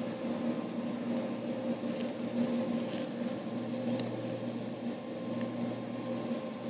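Steady machine hum with a constant pitch, with a few faint ticks over it.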